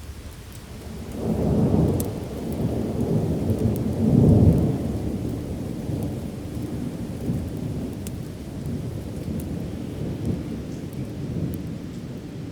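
A peal of thunder rumbles in over steady rain. It builds about a second in, swells loudest again around four seconds, then rolls on and slowly fades.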